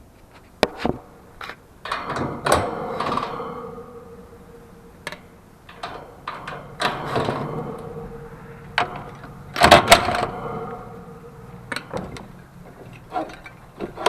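Metal knocks and clatters of tools and equipment being handled at a heat pump, in irregular bursts with the loudest pair about ten seconds in, over a faint steady hum.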